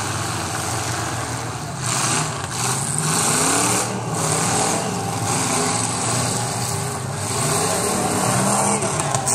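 Demolition derby cars' engines running and revving up and down, several at once, in a loud, dense mix.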